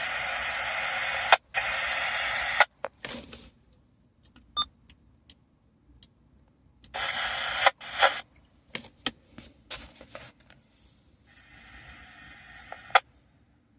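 Scanner radio between transmissions: bursts of static hiss as channels key up, each cut off sharply by the squelch, with scattered clicks and stretches of near silence between. A longer burst opens, a shorter one comes about halfway through, and a fainter one comes near the end.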